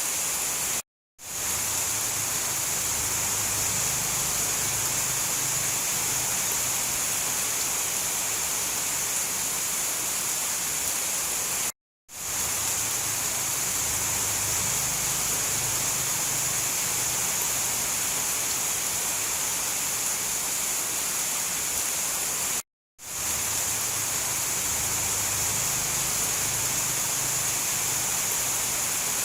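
Steady, even rain noise. It is a looped recording that drops to silence for a split second about every eleven seconds.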